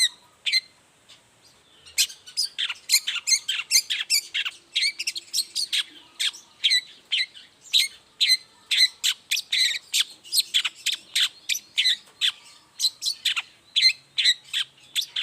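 Long-tailed shrike (cendet) singing a fast run of short, sharp, high chirping notes, about three or four a second, after a brief pause about a second in.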